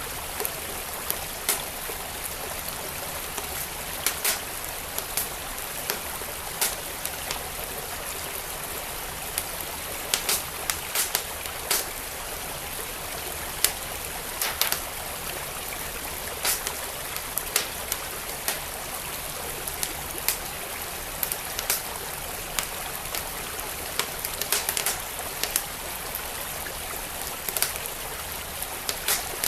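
Wood fire crackling, with sharp pops at irregular moments several times a second or so, over the steady rush of a flowing stream.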